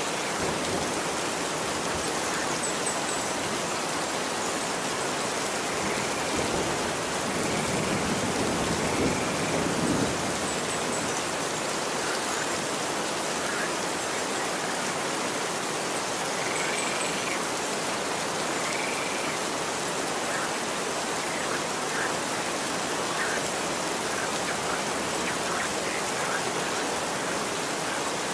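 Steady rain falling on a street, an even hiss of drops. About six seconds in, a deeper rushing swells for a few seconds and fades, and a few faint high chirps come and go over the rain.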